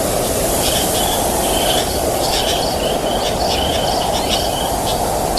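Steady wind noise across a rice field, with small birds chirping in short high notes over it, repeated every second or so.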